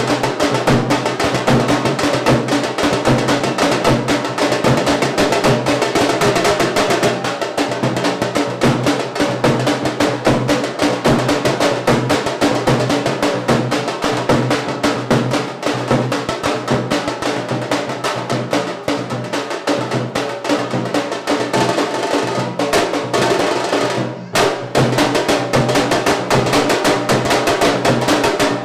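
Music driven by fast, dense drumming with rapid rolls, continuous apart from a brief drop-out about 24 seconds in.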